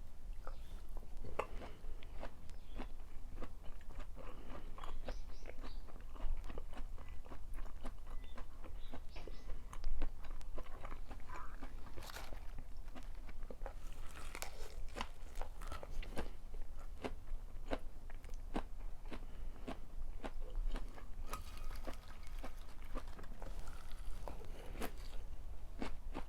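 Close-miked chewing of food, with wet smacking and crisp crunching in a dense, irregular run of small clicks, over a steady low hum.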